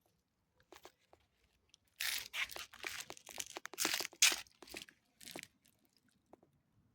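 Scratchy, crackling rubbing of a cat's fur close to the microphone during a head massage: a run of rough strokes from about two seconds in until nearly five seconds, then one more short stroke.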